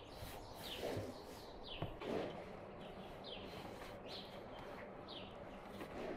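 A small bird chirping over and over: short, high chirps that sweep downward, about one a second. A few soft thuds come from lower down.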